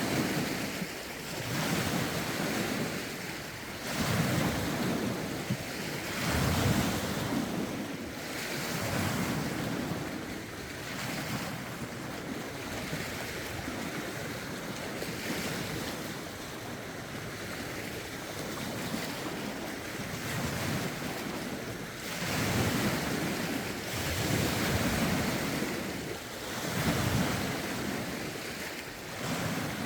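Lake waves washing in and breaking on the shore, arriving as swells every two seconds or so, with gusty wind buffeting the microphone.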